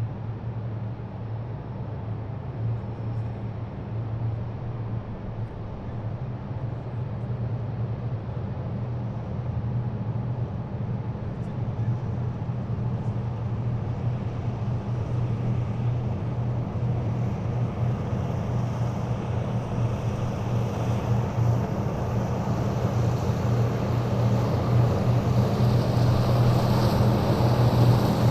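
Heavy military vehicles' diesel engines running with a steady low hum, growing gradually louder as the column approaches, with more tyre and engine noise toward the end.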